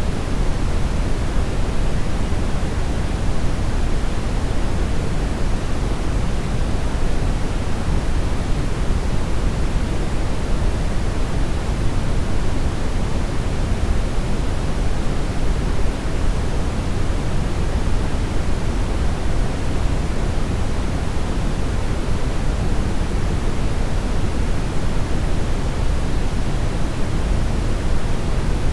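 Brown noise: a steady, even rushing hiss weighted toward the bass, with no changes or events.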